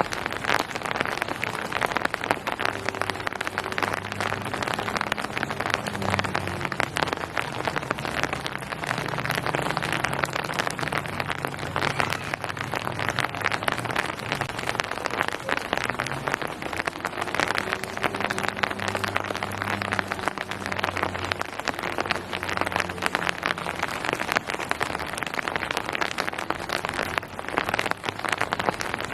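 Steady rain falling on hard surfaces, a dense patter of drops. A faint low hum comes in and fades away twice underneath.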